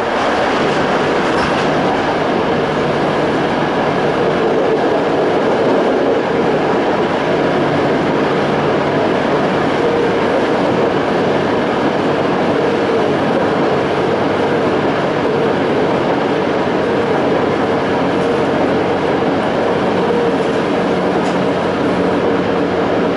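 Toei 5300 series commuter train (set 5309, Hitachi-built Mitsubishi GTO-VVVF) heard from inside the car, running at steady speed: constant wheel-on-rail rumble with a few steady tones that hold their pitch.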